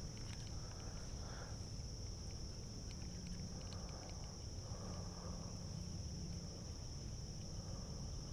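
Steady high-pitched chorus of insects, unbroken throughout, over a low rumble.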